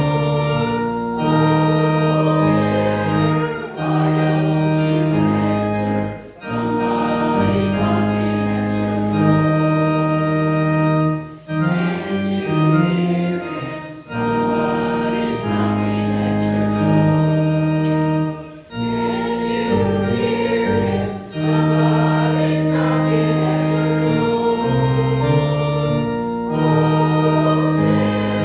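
Organ playing a slow hymn in sustained chords, with brief breaks between phrases.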